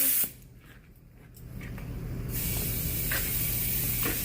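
Compressed air hissing as a tire is filled through its valve stem. A loud burst of air cuts off right at the start, then the hiss builds back over about two seconds and runs steady while the tire slowly airs up.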